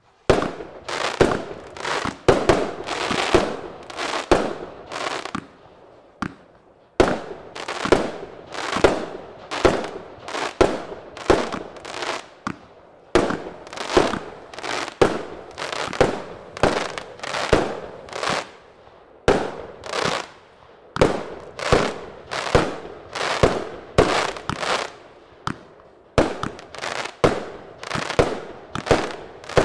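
A long run of sharp bangs, each with a short echoing tail, coming about one or two a second, with a brief lull about six seconds in.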